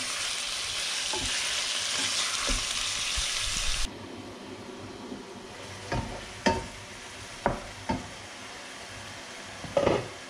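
Diced beef and vegetables sizzling in a hot frying pan as a wooden spoon stirs them. About four seconds in the sizzle stops abruptly, giving way to a quieter background with a few sharp clinks and knocks from a glass pot lid and a wooden spoon against a pot.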